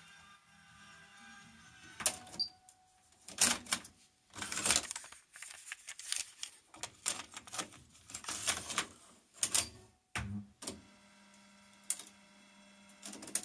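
Irregular mechanical clicks and clunks from the Pioneer KEH-M7400RDS radio-cassette player being operated, its buttons and cassette mechanism. About ten seconds in a thump, then a faint steady hum.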